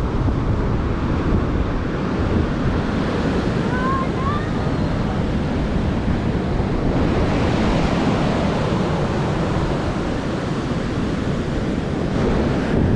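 Ocean surf washing onto the beach, with wind buffeting the microphone in a steady rumble.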